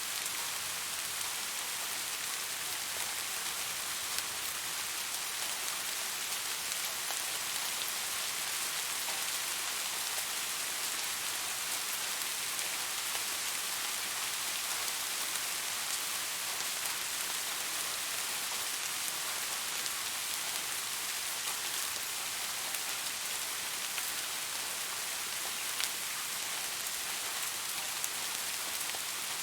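Steady rain falling on a surface: an even hiss strongest in the upper range, flecked with faint individual drop ticks.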